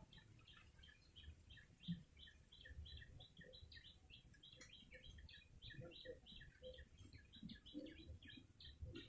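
Faint, rapid, repeated short chirps of a prenjak lumut, several a second, in two alternating pitches, with soft low thuds underneath.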